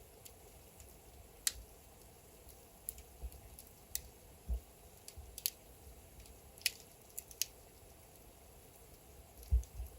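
Wood fire burning in a fireplace, crackling: scattered sharp pops from the logs at irregular intervals of a second or so over a faint steady hiss, with a couple of soft low thuds, the loudest near the end.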